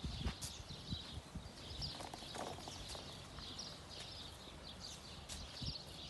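Small birds chirping in short, repeated calls, with scattered low thuds underneath.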